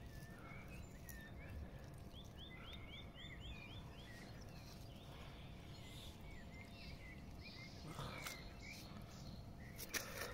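Faint small birds chirping, with a quick run of about seven chirps a couple of seconds in and scattered chirps after, over a low steady rumble. Two sharp clicks or knocks, the second, near the end, the loudest sound.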